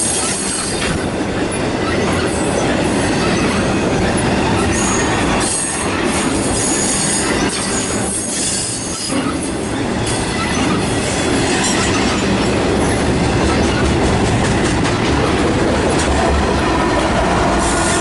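Train rolling past on the rails: a steady rumble of wheels, with high steel-on-steel wheel squeal coming and going and a run of regular clicks as the wheels cross rail joints.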